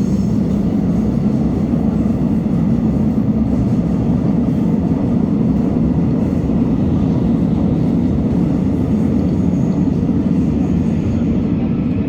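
Seoul Subway Line 3 train running, a steady low rumble heard inside the carriage.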